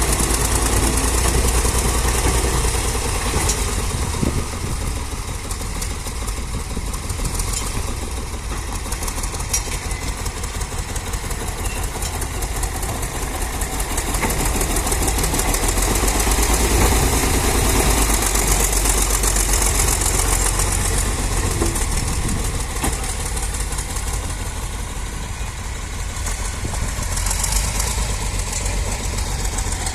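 Tractor engine running steadily under load while working a leveling blade, its level easing and swelling gently over the stretch.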